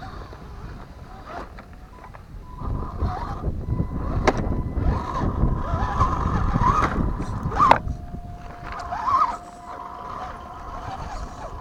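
Electric motor and gears of a radio-controlled scale crawler truck whining as it drives, the whine wavering up and down with the throttle and dropping to a lower steady pitch about eight seconds in. A rumble of tyres and chassis on rough ground runs through the middle, with two sharp knocks.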